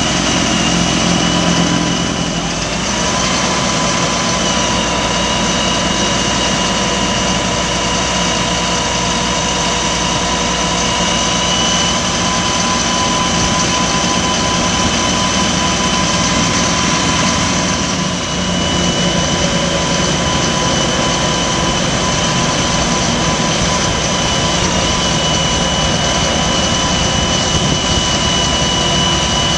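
Caterpillar 3126 diesel engine of a Ford F650 truck running steadily, with a steady high whine over it. The whine shifts slightly in pitch about three seconds in and again around eighteen seconds.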